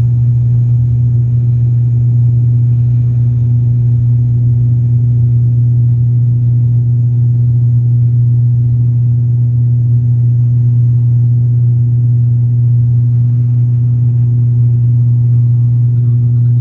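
Airliner engines during the climb after takeoff: a loud, steady low drone with a fainter hum above it, unchanging throughout.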